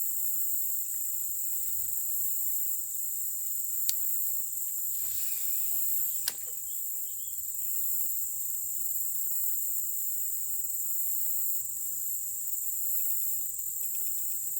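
Steady high-pitched chorus of insects, crickets by their sound, with two sharp clicks about four and six seconds in, the second after a short hiss.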